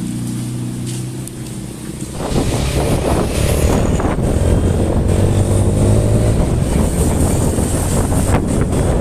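A motor vehicle's engine running steadily, then from about two seconds in getting louder as it pulls away, its pitch slowly rising, with wind buffeting the microphone.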